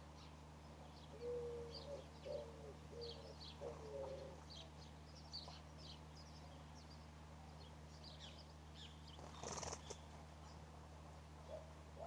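Small birds chirping faintly, with many short high chirps scattered throughout and four short lower calls in quick succession early on. A brief rustling burst comes near the end, over a steady low hum.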